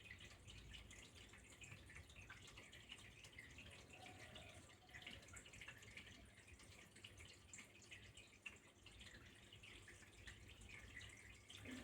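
Faint water trickling and dripping steadily, with many small splashes and drops.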